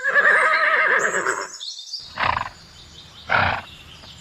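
Animal calls: one long, wavering call, then two short calls about a second apart.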